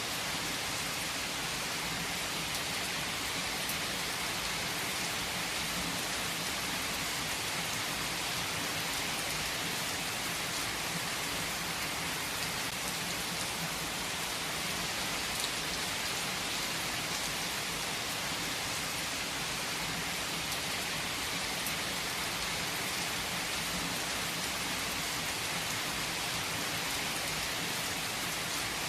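Heavy rain falling steadily, a constant hiss with the patter of drops on surfaces.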